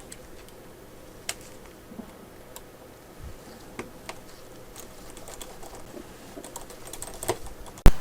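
Scattered light clicks and taps of small repair tools and parts being handled on a workbench, with one sharp, much louder click just before the end.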